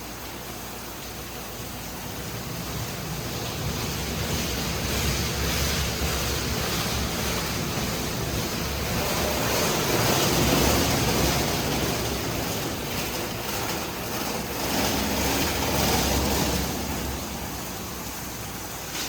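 High-pressure water jets of a PDQ ProTouch touchless car wash spraying the vehicle: a steady hiss of spray that swells to its loudest about halfway through, dips, rises again, then eases near the end as the spray arm moves past.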